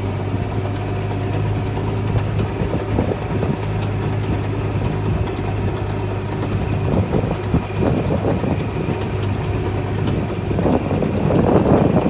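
An engine running steadily at a constant speed, with a rushing noise building up near the end.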